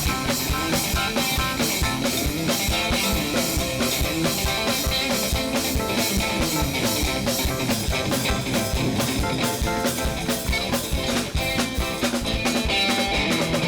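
Up-tempo band music with no singing: a drum kit keeping a quick, steady beat under guitar.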